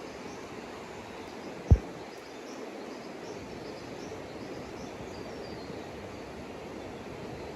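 Steady outdoor background noise with faint bird calls, broken once by a single sharp, low thump a little under two seconds in, the loudest thing here.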